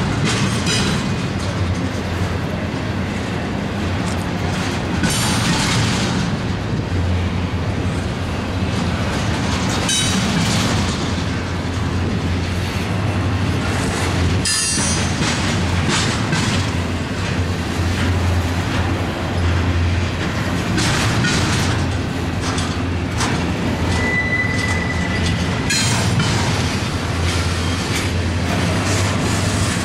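Double-stack intermodal freight train's articulated well cars rolling past: a steady rumble of steel wheels on rail, with repeated clacks as sets of wheels pass and a brief wheel squeal about two-thirds of the way through.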